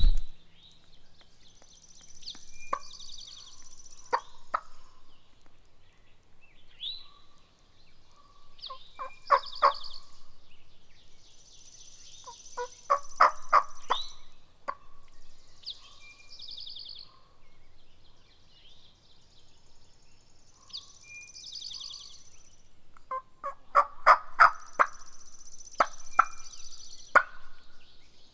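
Wild turkey gobbling several times in the woods, each gobble a fast rattling burst. The loudest come about a third of the way in, about halfway, and near the end. Songbirds sing high trilled phrases in between.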